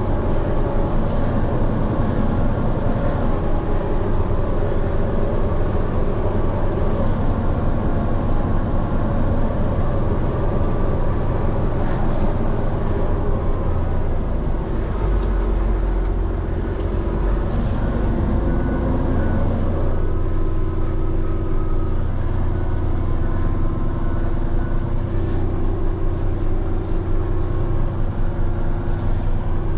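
Heavy rotator wrecker truck's diesel engine running steadily while reversing slowly on gravel, its pitch and low rumble shifting for a few seconds about halfway through.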